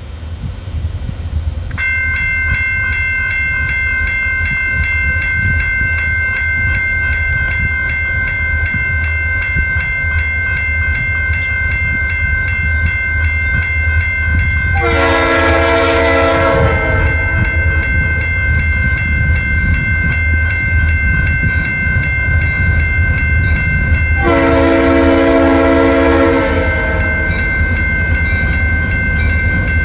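Norfolk Southern freight train's diesel locomotive approaching with a steady low rumble. A grade-crossing bell starts ringing about two seconds in, and the locomotive's air horn sounds two long blasts, one about halfway through and one near the end, the opening of its signal for the crossing.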